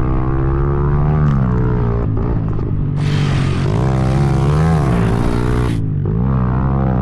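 Pit bike engine running under load, its pitch rising and falling as the throttle is worked. From about three seconds in, a loud rushing hiss joins it for nearly three seconds and then cuts off suddenly.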